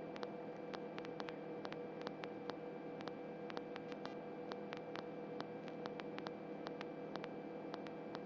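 Faint steady electrical hum with light static and scattered faint clicks: the background noise of the radio or recording feed between transmissions.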